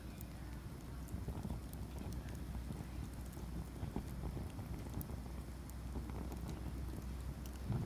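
Campfire of hard peach wood burning, with scattered sharp crackles and pops over a low steady rumble.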